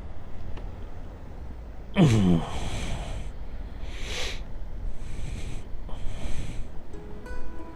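A loud voiced sigh falling in pitch about two seconds in, then a series of short breaths close to the microphone, about one a second. Background music begins near the end.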